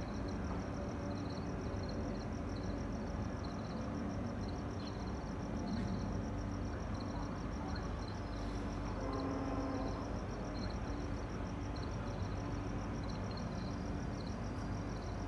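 Low, steady rumble of a distant train approaching along the line, with a high, evenly pulsing trill and short high chirps above it.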